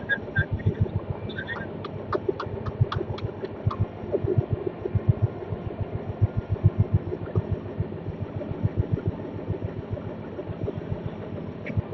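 Passenger train coach running along the track: a steady rumble with dense, irregular low thuds, and a run of sharp clicks in the first four seconds.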